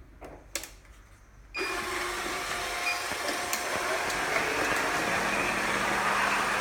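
Robot vacuum cleaners running: after a couple of faint clicks, a steady whirring hiss of motor and brushes starts suddenly about a second and a half in and keeps going.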